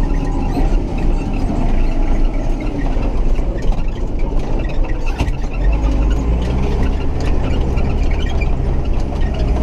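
Massey Ferguson 6270 tractor's engine running as it drives along pulling a grain trailer, with light rattles. The low engine drone grows steadier and stronger a little past halfway.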